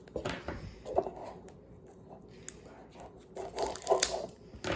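Irregular rustling and clicking as a boxed 6x6 puzzle cube is taken out of its plastic and cardboard packaging, in several short clusters about a second in and near the end.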